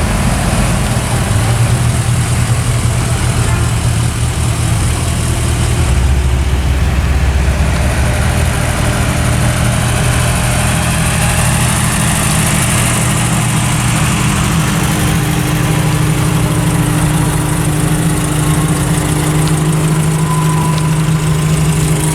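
Car engine running at idle, a steady low rumble whose pitch shifts slightly now and then.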